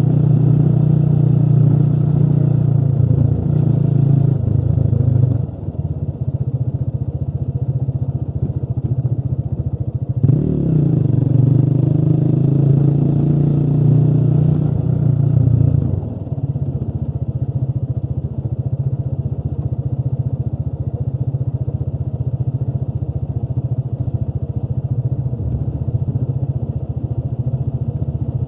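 Motorcycle engine running while riding: the throttle eases off about five seconds in, opens again with a rise in pitch about ten seconds in, and eases off around sixteen seconds, after which it runs steadily at a lower level.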